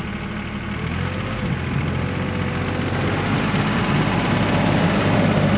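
1985 John Deere 1050 compact tractor's diesel engine running, growing steadily louder over the few seconds as it works.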